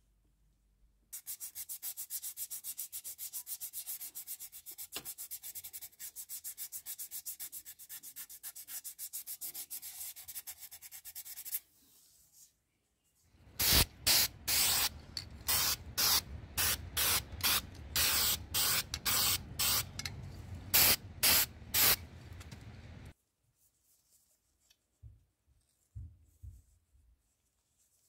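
Hand sanding of a small scale-model car part: rapid, even back-and-forth rubbing strokes for about ten seconds. After a short pause comes a louder stretch of irregular short bursts of scrubbing for about ten seconds, then a few light knocks.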